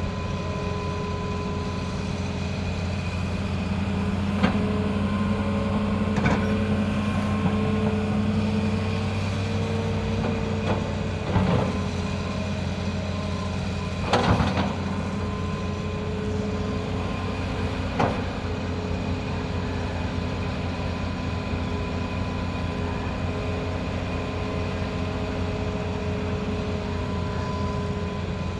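Excavator diesel engine running steadily, its pitch rising slightly about eight to ten seconds in, with five short knocks scattered through, the loudest about fourteen seconds in.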